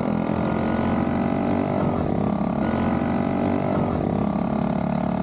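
Small single-cylinder Dax mini-bike engine running steadily, its pitch shifting a little now and then.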